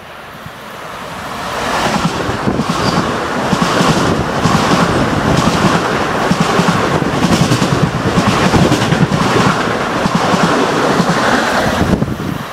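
Electric commuter train approaching and rushing past close alongside the platform at speed: steady wheel-on-rail rumble and rushing noise that builds over the first two seconds, then holds loud until it drops off suddenly near the end.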